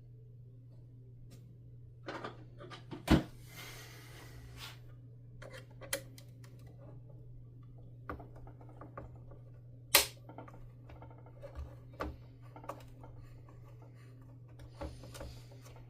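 Small parts of a vacuum cleaner being handled and taken apart: scattered clicks and knocks of plastic and small tools, with two sharp clicks about three and about ten seconds in and a short rustle after the first. A steady low hum runs underneath.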